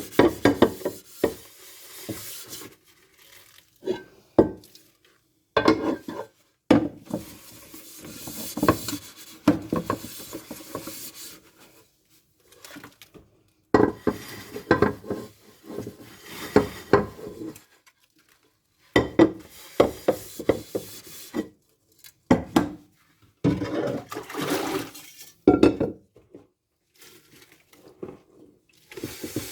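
Dishes and cutlery clinking and scraping as they are handled and scrubbed by hand, in bursts of a second or two with short pauses between them.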